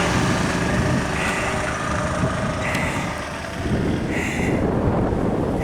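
Monster truck engine running, getting louder and rougher about two-thirds of the way through. A short high beep repeats about every second and a half over it.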